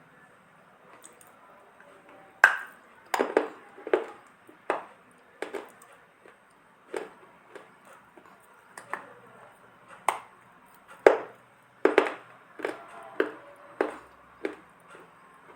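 Dry lumps of multani mitti (Fuller's earth clay) being bitten and crunched: a series of about twenty sharp crunches at an uneven pace, starting a couple of seconds in.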